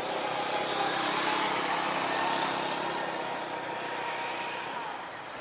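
Airbus A321 jet engines during a landing approach: a steady rushing noise with a faint whine, swelling slightly about two seconds in and then easing off.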